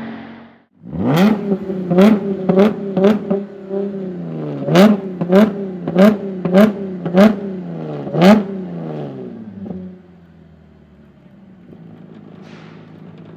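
Bentley Continental GT3's twin-turbo V8 revved in about ten quick throttle blips, each with a sharp crack at its peak, then settling to a quieter idle for the last few seconds.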